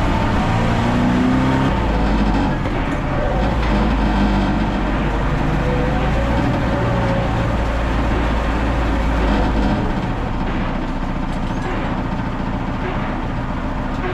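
VAZ 2101's inline-four engine running under way. It revs up in the first second or so, then settles to lower, steadier revs and drops a little in level about ten seconds in.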